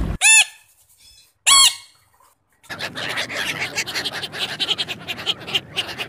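Two loud, short bird calls about a second apart, each rising and falling in pitch, then, after a pause, a dense stretch of scratchy clicks and rustling.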